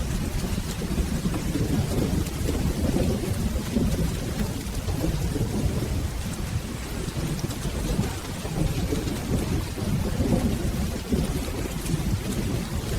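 Steady rain with a continuous low rumble of rolling thunder, with no single sharp clap.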